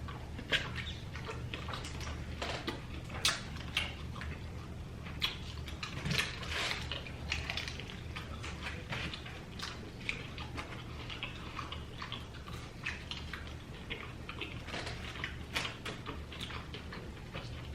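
Close-miked eating of fried chicken wings: irregular wet chewing and lip-smacking clicks, over a steady low hum.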